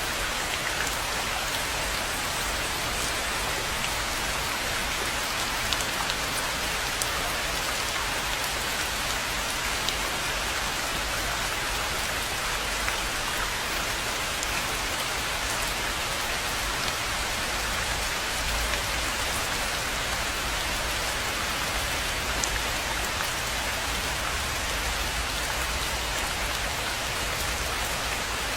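Steady rain falling on a rainforest pond: an even hiss of rainfall with scattered louder single drops and a low rumble underneath.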